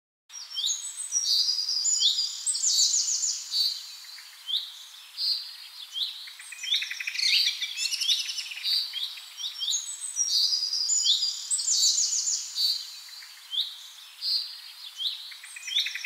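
Birds chirping and singing: a dense run of quick high chirps, whistles and trills that begins a moment in, the same sequence of phrases seeming to come round again about halfway through.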